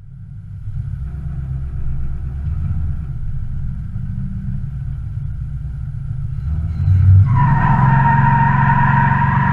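1968 Pontiac LeMans engine running as the car cruises, a low steady rumble. About seven seconds in it gets louder, and a steady higher drone joins in.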